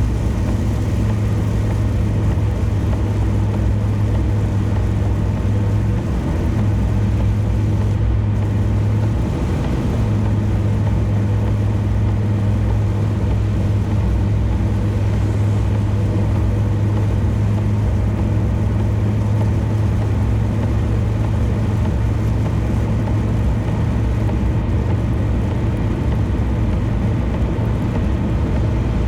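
Car cruising at expressway speed: steady engine hum and tyre and road noise.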